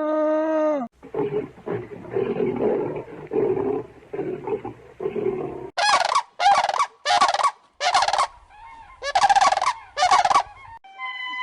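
Animal calls: a short pitched call that falls away, then a few seconds of rough, rapid grunting sounds, then six loud, short, harsh calls in a group of four and a group of two.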